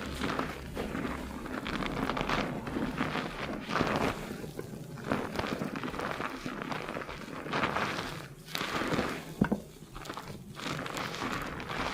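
Close binaural sound of hands scrubbing lathered hair and scalp, the shampoo foam crackling in irregular surges with short pauses, and a sharp click about nine and a half seconds in.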